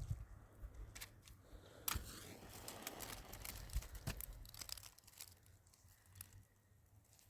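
Crinkling and snapping of dry material being handled, with scattered sharp clicks, the loudest about two seconds in; it grows quieter in the second half.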